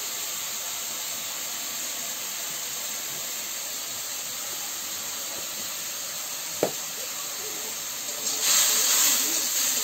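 Food frying in oil in a steel wok, a steady sizzle with a single sharp click about two-thirds of the way through. The sizzling grows louder near the end as a metal ladle stirs the pan.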